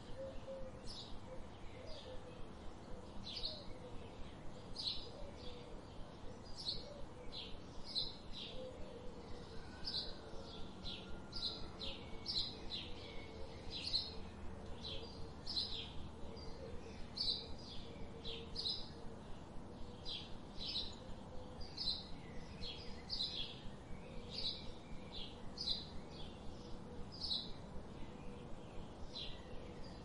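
Bird chirping: short, sharp, high chirps repeated about two to three times a second, over a faint outdoor background.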